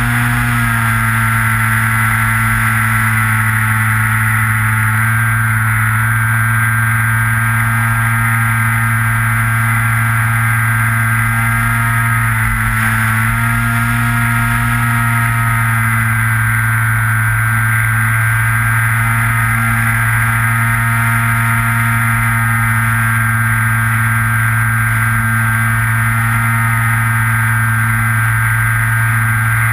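Electric motor and propeller of a Skywalker FPV model plane running steadily in flight, heard from the GoPro on board: a loud drone with a whine above it, the pitch shifting slightly with throttle about a second in and again about halfway through.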